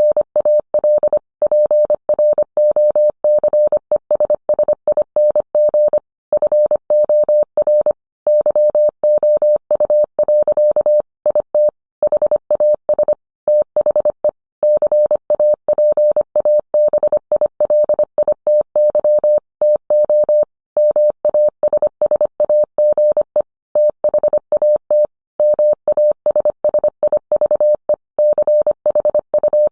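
Morse code: a single steady tone keyed on and off rapidly in dots and dashes, sent at a brisk speed with short pauses between words.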